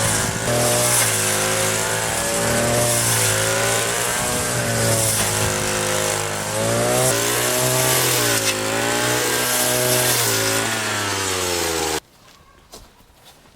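Small two-stroke petrol engine of a brush cutter mowing grass, its pitch rising and dipping as the cutting line meets the grass. It stops abruptly near the end.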